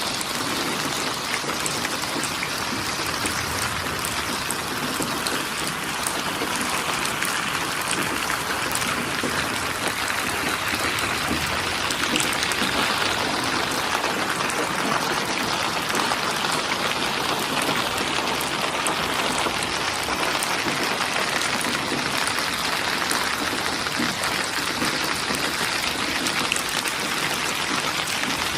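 Steady rain falling, a dense even hiss of drops with fine pattering on surfaces and no let-up.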